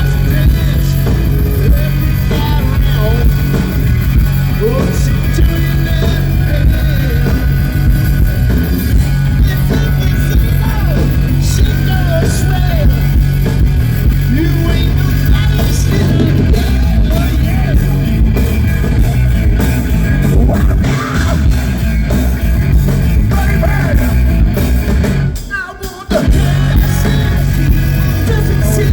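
A live hard rock band playing loud, with electric guitar and drums, and a voice singing or shouting over it. The music drops away for about a second near the end, then comes back in.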